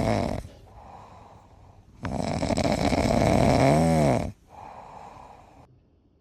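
A sleeping dog snoring: two loud, rasping snores about two seconds apart, each followed by a softer breath. The second snore ends in a whistling tone that rises and falls.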